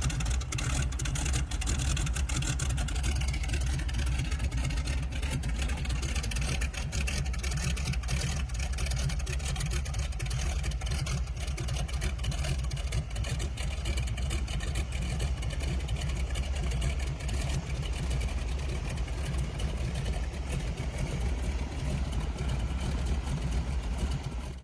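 Air Tractor AT-401 ag plane's engine running steadily, a low drone with a dense rough crackle over it.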